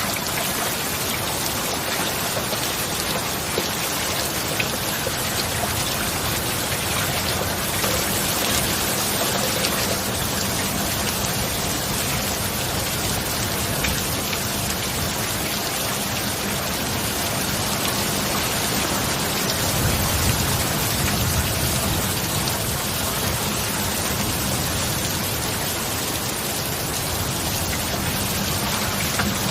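Steady heavy rain falling, an even hiss of drops with no let-up. A low rumble swells briefly about two-thirds of the way through.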